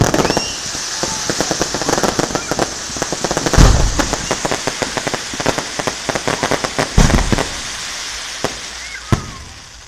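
Fireworks: a dense crackling of many small bursts, with two heavy booms about three and a half and seven seconds in. The crackle thins out to a few single cracks near the end.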